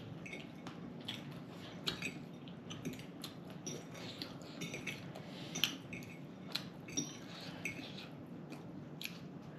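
Cutlery and dishes clinking at a meal: scattered light clicks and clinks, a few a second, with a faint steady hum underneath.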